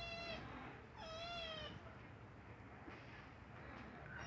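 A kitten meowing, a plaintive call it makes when it needs to poop. One meow tails off at the start, a full meow comes about a second in, and another begins right at the end.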